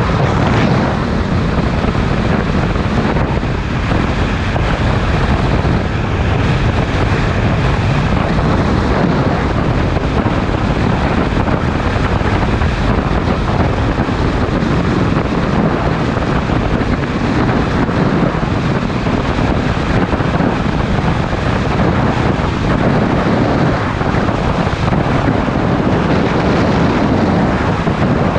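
Motorcycle riding at steady road speed, its engine mixed with heavy wind rushing over the camera microphone.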